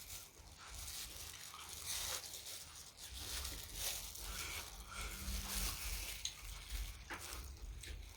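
Close-miked chewing of food, with a run of irregular soft clicks and wet mouth noises.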